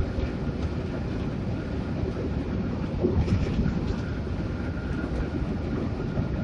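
Hino RK8-engined coach under way: a steady low engine drone mixed with road and wind noise.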